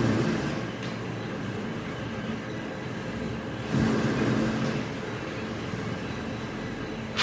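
Machinery running steadily, with a louder surge and low hum about every four seconds.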